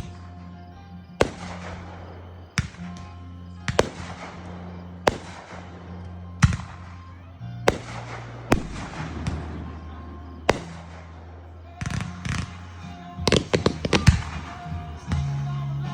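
Aerial fireworks exploding, a sharp bang with a trailing crackle about every second or so, then a quick run of several bangs near the end. Background music with low held notes plays throughout.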